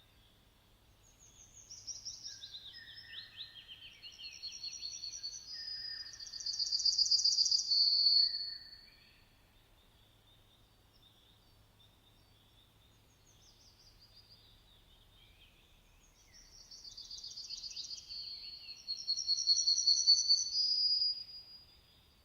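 A songbird singing two long phrases of rapid trills and clear whistled notes. Each lasts several seconds and gets louder toward its end, and the second begins about halfway through.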